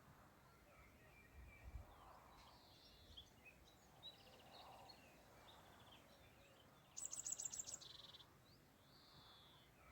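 Birds singing in a spring dawn chorus: soft scattered chirps and trills throughout, and about seven seconds in one bird's loud song phrase, a quick run of very high notes dropping into a lower buzzy trill.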